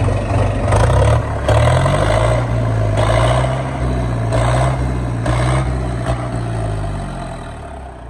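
HMT 5911 tractor's diesel engine running steadily, rising slightly in revs about two seconds in and fading a little toward the end.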